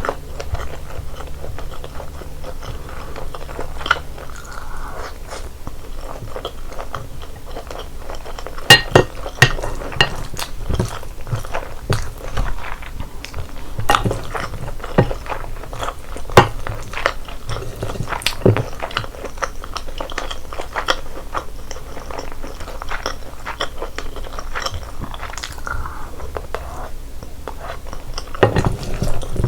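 Close-miked chewing and biting of sauced chicken and rice, wet mouth sounds with sharp clicks and crunches scattered throughout and a few louder ones about nine, fourteen, sixteen and eighteen seconds in.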